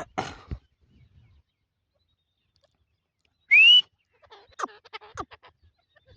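One short, loud whistled note rising in pitch, followed by a scatter of sharp clicks and knocks.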